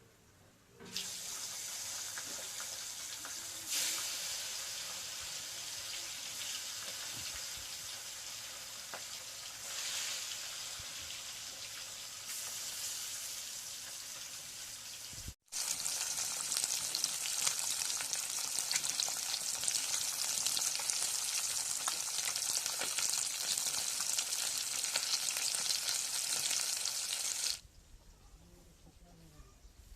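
Fish frying in hot oil in a pan: a steady sizzle that begins about a second in, drops out briefly midway, comes back louder and stops abruptly near the end.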